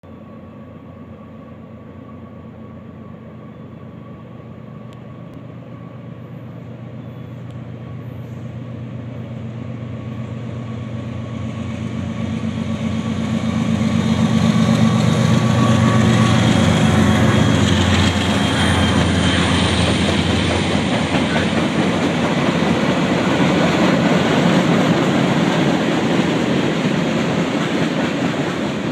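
A freight train led by two diesel locomotives, a GE AC44CW and an EMD SD40-2, approaches with its engines running, growing steadily louder until the locomotives pass about halfway through. After that the freight cars roll by with a steady rumble of wheels on rail.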